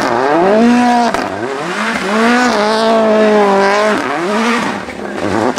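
Prodrive Mini WRC rally car's 1.6-litre turbocharged four-cylinder engine revving hard while doing donuts, the revs climbing, holding high and dropping back again and again, with tyre squeal.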